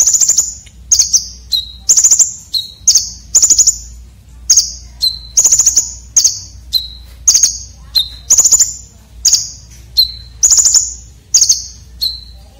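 Red-breasted konin (kolibri, a sunbird) calling over and over, about twice a second: each call is a short clear high note followed by a coarse, sharp, rasping chatter, the harsh 'isian kasar' type of song used to tutor contest birds.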